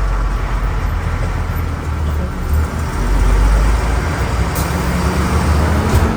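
Volvo B10M bus's diesel engine running under load, a steady low rumble whose pitch rises over the last couple of seconds.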